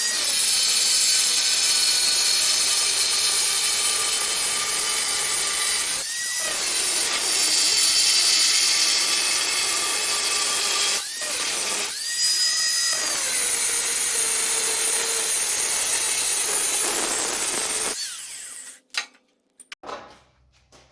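Power tool, most likely an angle grinder, cutting 1/8-inch steel plate: a loud, steady high-pitched whine with grinding hiss. The motor eases off and spins back up about six and eleven seconds in, and the tool cuts off about eighteen seconds in, followed by a few short clanks.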